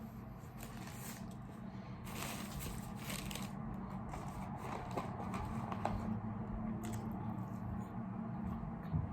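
Eating close to the microphone: irregular rustling and chewing noises from handling and biting food, densest about two to three and a half seconds in, over a low steady hum.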